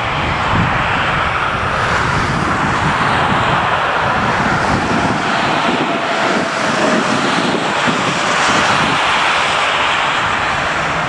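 Jet airliner's engines at takeoff power, a loud steady rush of jet noise, with a faint whine that slowly falls in pitch in the second half.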